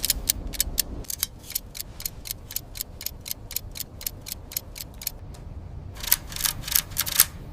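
Clockwork mechanism ticking steadily, about three sharp ticks a second, louder and brighter near the end.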